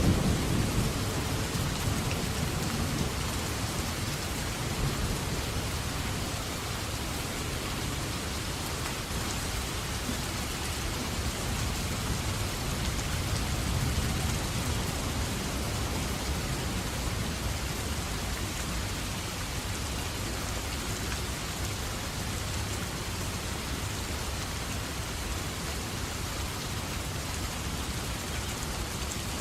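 Steady rain falling in a thunderstorm, an even hiss of drops on surfaces, with a low rumble of thunder dying away in the first couple of seconds.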